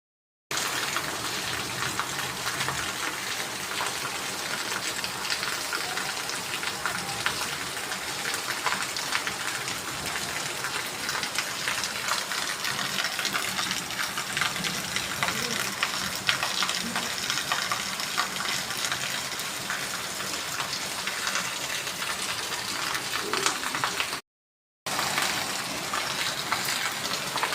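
Steady rush of water, like rain or running water, thick with a fine patter of tiny ticks; it breaks off for a split second about 24 seconds in, then carries on the same.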